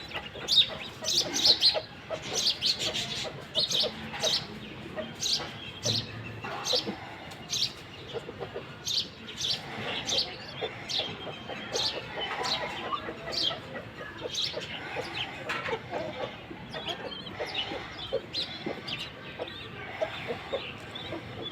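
Birds calling: a steady run of short, high chirps, one or two each second.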